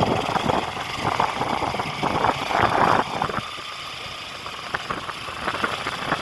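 A vehicle engine running, with a rough, fluctuating noise that is louder for the first three seconds and then drops.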